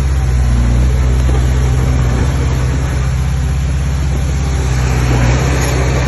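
Heavy diesel engine of an earthmoving machine running steadily under load, with a deep, even engine drone.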